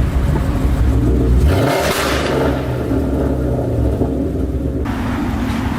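Ford Mustang GT's V8 with a loud exhaust running on the road. About one and a half seconds in the engine note changes and a rushing hiss rises with it, easing off near the end.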